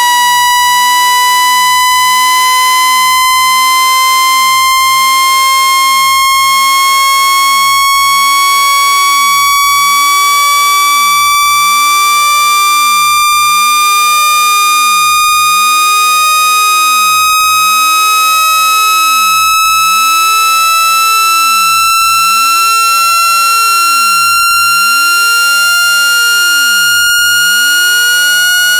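A loud synthetic speaker-cleaning tone, a water-eject sound, that is steady and slightly buzzy. It glides slowly and evenly upward in pitch.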